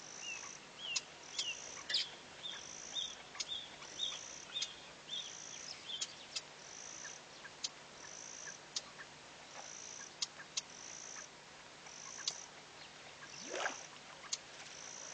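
Bee-eater calling: a quick series of short chirps over the first six seconds. Under it, a short high note repeats about once a second, with scattered sharp clicks and one falling sweep near the end.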